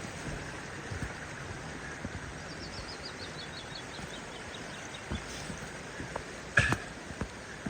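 Steady rush of a creek, with a bird singing a falling run of about a dozen quick, high notes in the middle. Near the end come a couple of sharp knocks, the loudest sounds.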